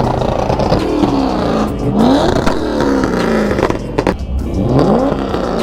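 Car engine being revved, its pitch climbing and falling several times, with rises about two and a half seconds in and again near the end.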